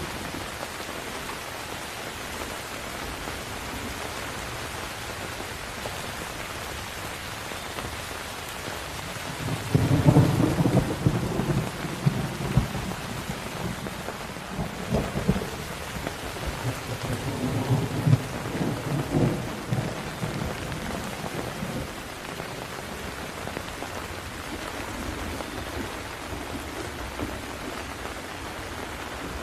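Steady heavy rain hissing on a surface, with a roll of thunder that breaks in sharply about a third of the way through and rumbles on in several surges for about ten seconds before fading back under the rain.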